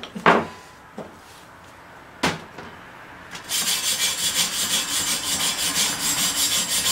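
Two light knocks, then from about halfway through a rapid, even back-and-forth scraping on steel, several strokes a second, as when a fresh weld is scrubbed clean.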